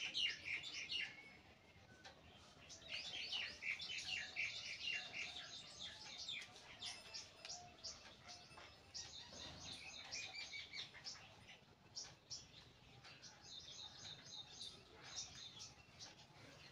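Small birds chirping and twittering in quick bursts of short high notes, with brief pauses between the bursts.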